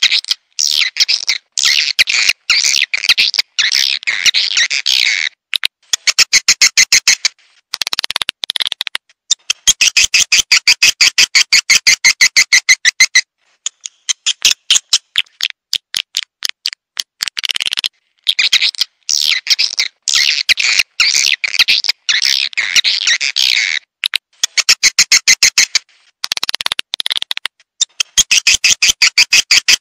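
Recorded swiftlet calls: phrases of dense, high twittering chirps alternate with fast, even trains of clicking pulses, each phrase a few seconds long. The phrases start and stop abruptly with short silences between them, as in a looped lure recording for swiftlet houses.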